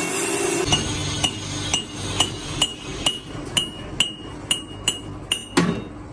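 Hand hammer striking steel in steady blows, about two a second, each with a clear metallic ring, while working on a heavy-vehicle axle housing. Under a second in, a steady machine noise cuts off before the hammering starts.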